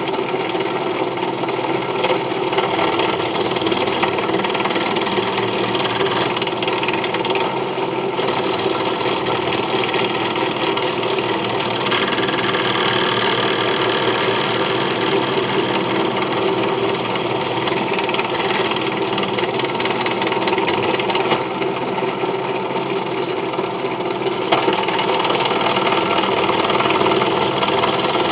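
An electric power-tool motor running steadily, with a brighter, higher cutting sound about twelve seconds in that lasts a few seconds.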